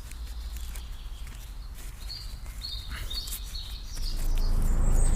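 Birds chirping, with a few light clicks. About four seconds in, a loud low engine rumble from passing army traffic rises and keeps building.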